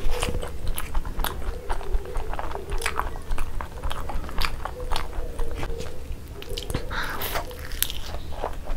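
Close-miked chewing and biting of sunny-side-up fried eggs with crisp, browned edges: a dense, irregular run of short sharp mouth clicks and crunches.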